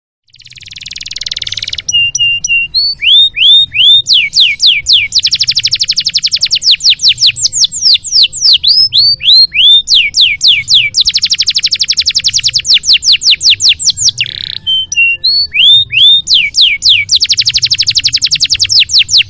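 Domestic canary singing one long song phrase: a short buzzy note, then runs of repeated downward-sweeping whistles alternating with very fast, rolling trills, the whole phrase lasting about nineteen seconds.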